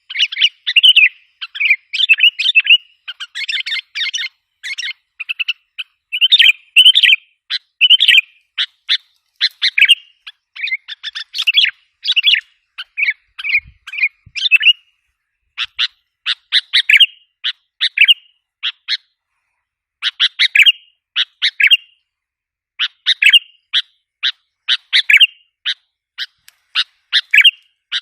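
Sooty-headed bulbul calling: loud clusters of short, quick chirps, repeated over and over with brief pauses between them. It is a recorded lure call of the kind used to excite and draw in wild bulbuls.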